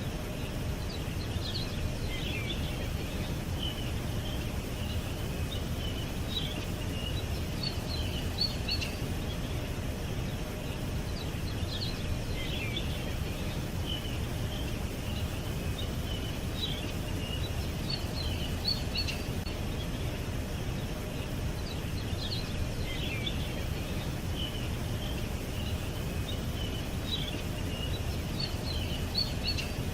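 Small birds chirping and twittering in short, scattered calls, over a steady low background rumble.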